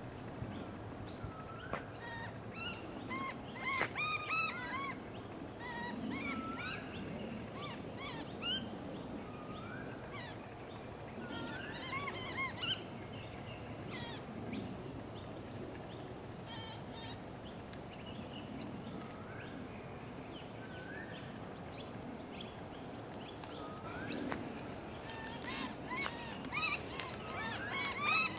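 Several birds calling, with short rising whistles repeated every second or two and bursts of rapid chirps in between. A high steady hiss swells and fades twice in the middle.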